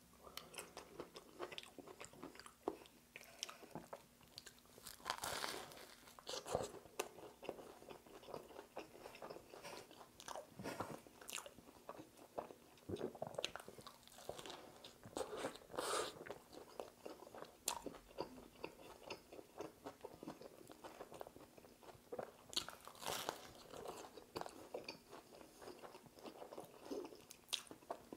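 A person biting into and chewing a toasted buffalo chicken sandwich with coleslaw, close to the microphone: irregular crunches and mouth sounds throughout.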